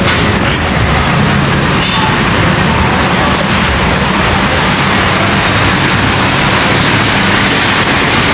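Steady road and engine noise of a car on the move, a constant low rumble under a wide rushing hiss.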